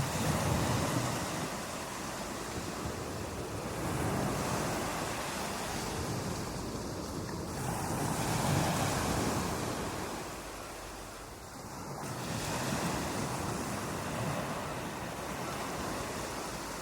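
Ocean waves breaking on a beach: a continuous rush of surf that swells and ebbs in slow surges every few seconds.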